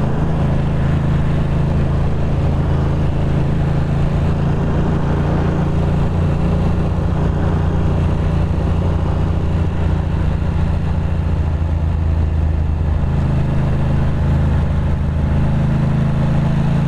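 Ducati Monster 620's air-cooled L-twin engine running at a steady, low cruising speed, with only slight changes in pitch.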